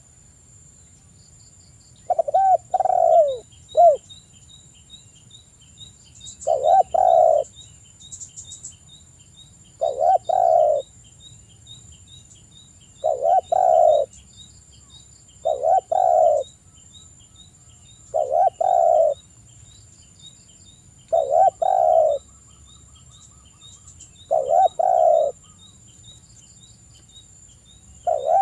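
Spotted dove (tekukur) cooing: nine repeated low coo phrases, one about every three seconds, the first with a few extra short notes. A faint rapid high ticking runs in the background.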